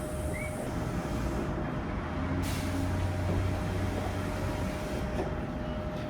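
Tram running, a steady rumble of wheels and motor with a constant whine. A deeper hum swells through the middle, and there is a brief high squeak near the start.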